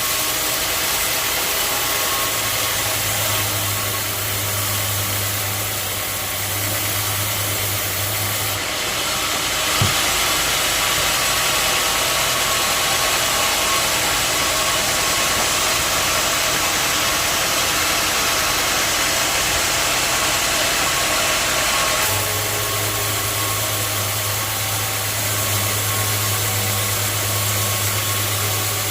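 Sawmill machinery running with a steady mechanical noise. The sound changes abruptly about nine seconds in and changes back about twenty-two seconds in, with a single sharp knock shortly after the first change.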